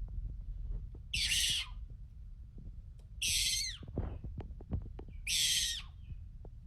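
An animal's harsh, hissing screech given three times, each about half a second long and roughly two seconds apart.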